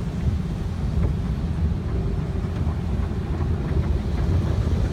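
Automatic car wash running over the car, heard from inside the cabin: a steady low rumble.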